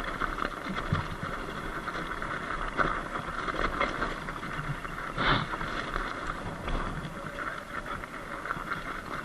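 Sur-Ron Light Bee electric dirt bike rolling over a loose dirt road, tyres crunching on gravel with constant small rattles and clicks, and a louder knock about five seconds in.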